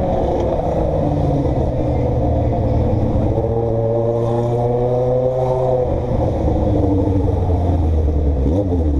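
A road vehicle's engine running while under way. Its pitch climbs for a few seconds, then drops about six seconds in, as at a gear change, and rises again toward the end.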